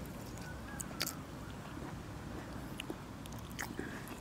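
People chewing and smacking their lips while eating, with a few short, sharp mouth clicks, the sharpest about a second in, over a steady low background hiss.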